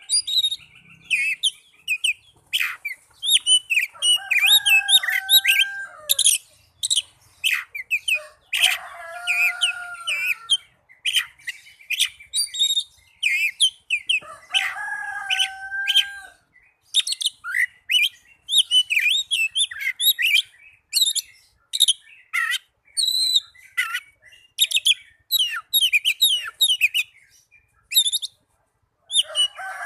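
Oriental magpie-robin (kacer) singing: a fast, varied run of high whistles, chirps and trills broken by short pauses. Three times a lower, drawn-out call of about two seconds cuts in among the song.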